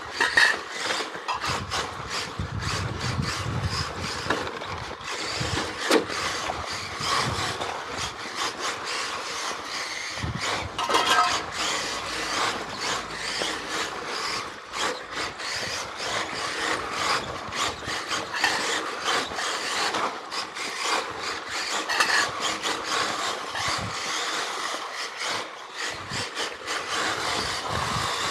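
An electric 1/10-scale RC car, an Xray XB4, being driven hard through a rally stage on pavement. Its motor and drivetrain whir and its tyres scrub on the tarmac, with many small clicks and knocks.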